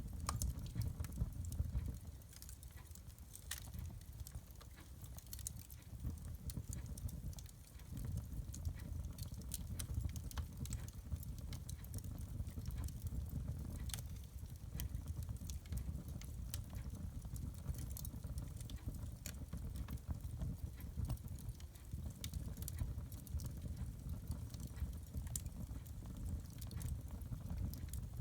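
Wood fire burning in a fireplace, crackling with frequent irregular sharp snaps over a low steady rumble.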